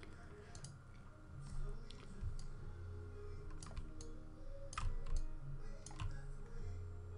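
Scattered clicks of a computer mouse and keyboard, spaced about a second apart, over a low steady hum.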